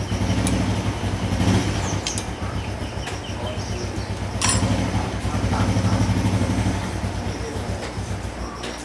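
Small four-stroke motorbike engine running, swelling louder twice, with a few sharp clicks over it.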